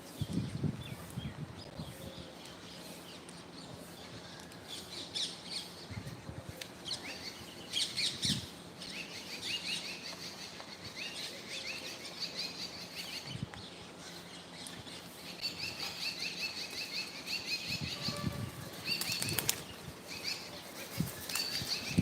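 Birds flapping their wings in several short flurries, over runs of quick, repeated high chirping calls.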